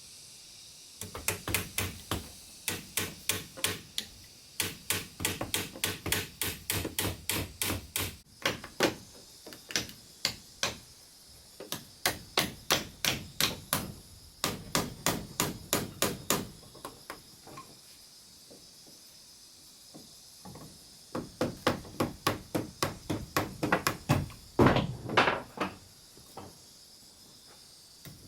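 Hammer striking wood in quick runs, about three or four blows a second, broken by short pauses, over a steady high hiss in the background.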